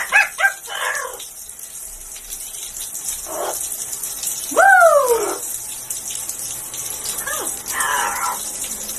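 A pet parrot calling in 'ow'-like whoops. One loud call rises and falls in pitch about halfway through, then a shorter call and a brief squawk come near the end, over a steady hiss.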